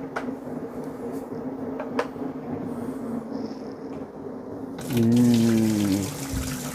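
Dirty water from a carpet cleaner's recovery tank being poured out into a sink, starting loudly about five seconds in with a pitched tone that falls slightly as it runs. A faint steady hum before it.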